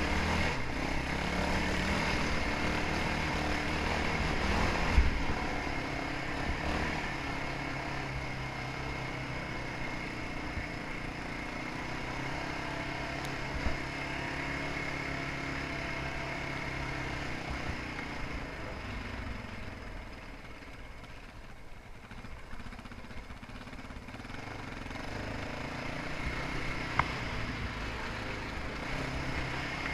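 Dirt bike engine running at a fairly steady speed, easing off for a while past the middle and picking up again near the end, with a sharp knock about five seconds in.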